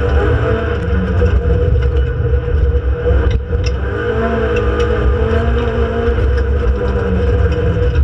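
Renault Clio Sport 2.0 182's four-cylinder engine heard from inside the race car's cabin, running under racing load, with a brief dip in the engine note about three and a half seconds in and light cabin rattles.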